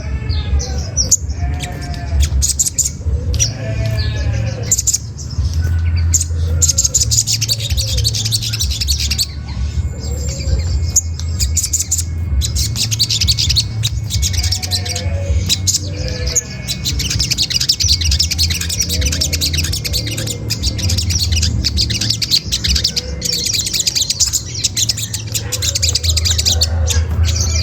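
Olive-backed sunbird calling, rapid high-pitched "cret cret" chattering repeated in long runs, with some lower rising-and-falling notes and a steady low hum underneath.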